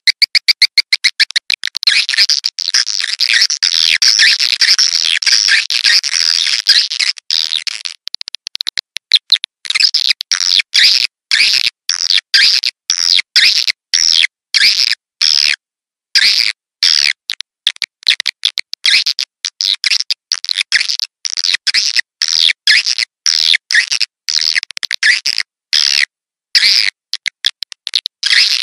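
Swiftlet calls played as a swiftlet-house lure track. A quick run of clicks comes first, then a long buzzing chirr, then short bursts of twittering broken by brief clean gaps.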